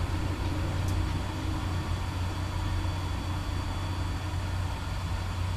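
Heavy diesel engine idling steadily, a low, even drone.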